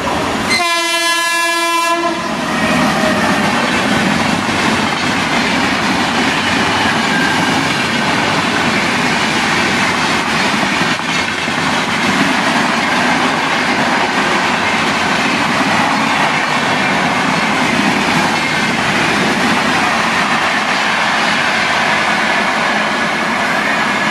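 Indian Railways electric locomotive sounds its horn, one blast of about a second and a half, as it runs through the station. Then its passenger coaches rush past at speed with a steady roar of wheels on rail.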